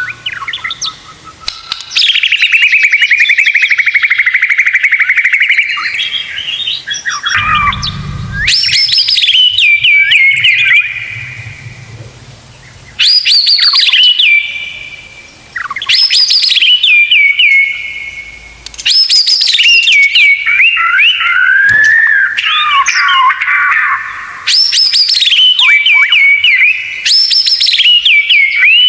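White-rumped shama (murai batu) singing a loud tutoring song. It starts with a long rattling trill, then repeats phrases every two to three seconds, each a sharp upward whistle followed by a falling run of notes.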